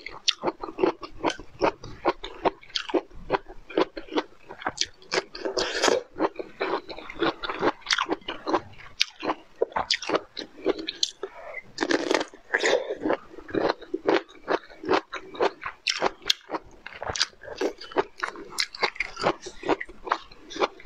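Close-miked crunching and chewing of roasted bamboo shoot: crisp bites into the fibrous flesh, several crunches a second, going on without a break.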